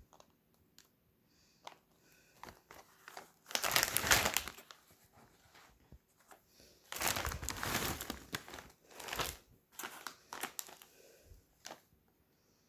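Old Dutch potato chip bag crinkling as it is handled, in two loud stretches about three and a half and seven seconds in, with scattered crackles between.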